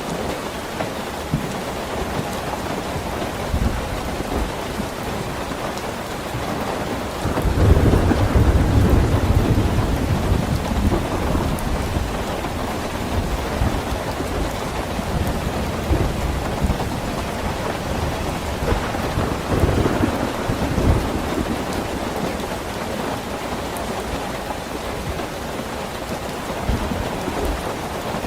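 Steady rain falling, with rolling thunder: a long low rumble swells about eight seconds in, and a lighter roll comes around twenty seconds in.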